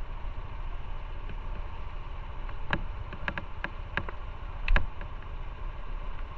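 Steady low rumble of a motorcycle ride, with a scattering of sharp clicks in the middle and the loudest click about three-quarters of the way through.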